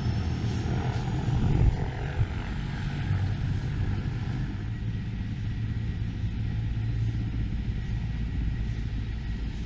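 Mil Mi-26 heavy-lift helicopter running: a loud, steady rumble from its twin turboshaft engines and rotor, with a faint high whine in the first second or so.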